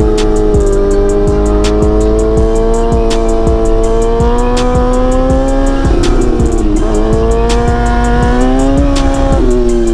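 Motorcycle engine running, its pitch rising slowly, dropping about six and a half seconds in and climbing again, with background music that has a steady beat.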